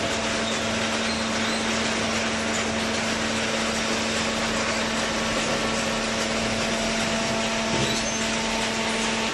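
Hydraulic cardboard baler running: a steady motor hum with one constant tone over broad, even machine noise.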